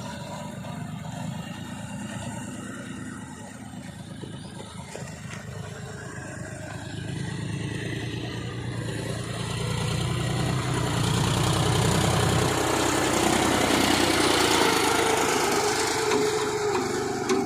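Heavy-machinery diesel engine running, growing louder through the middle and revving up in the second half.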